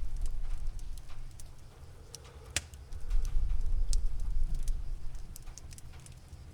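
A cat purring close up, rising and falling in two long swells, with the sharp pops and crackles of a wood fire scattered over it, one louder pop about two and a half seconds in.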